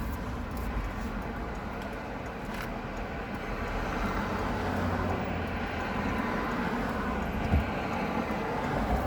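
Car engine and road noise inside the cabin while driving, a steady rumble that grows somewhat louder about halfway through, with a short thump near the end.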